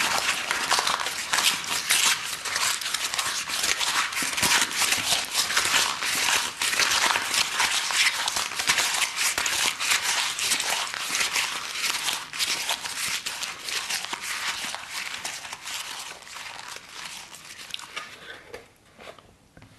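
Close-miked chewing of corrugated cardboard from a pizza box: a dense, crackling crunch that goes on steadily, then tapers off near the end.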